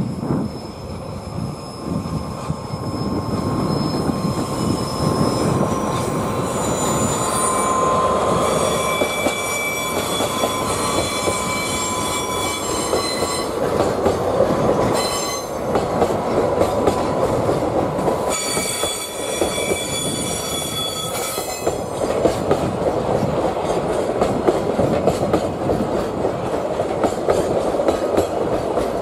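Container wagons of a freight train rolling past on a curve, their wheels squealing in several high, shifting tones over roughly the first twenty seconds, above a steady rumble and clatter of wheels on rail that continues after the squeal stops.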